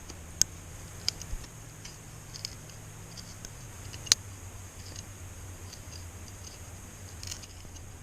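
Scattered sharp clicks and knocks, about six spread irregularly, the loudest about half a second in and again about four seconds in, over a steady high-pitched insect drone.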